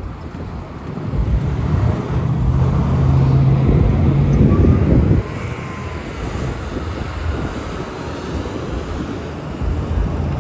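City bus's diesel engine droning as it passes close by. It builds over the first couple of seconds, is loudest from about two to five seconds in, then drops away suddenly, leaving steady traffic noise.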